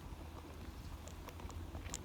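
Faint, irregular light clicks over a low, steady rumble.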